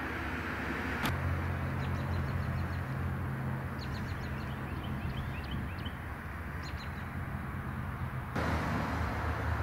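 Small birds chirping in several quick series of short high notes over a steady low rumble and hiss. The background shifts abruptly about a second in and again near the end.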